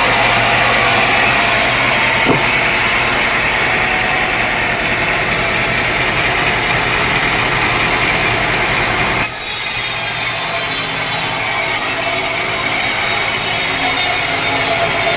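Sawmill saw cutting through teak wood: a loud, steady sawing noise with a high ring in it. About nine seconds in the sound changes abruptly and runs on as a different steady machine noise.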